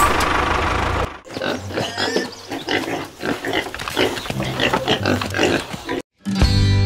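Domestic pigs grunting, a string of short irregular calls over about five seconds. The first second is a steady vehicle engine sound. Just before the end it cuts to silence and music begins.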